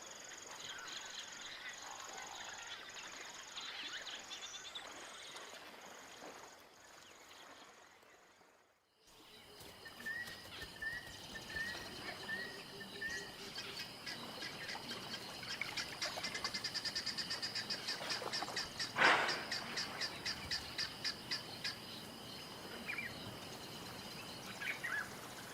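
Bush ambience of bird calls and insect chirping. It drops out briefly about eight seconds in, then returns with a run of short repeated chirps, a fast pulsing trill and one louder call.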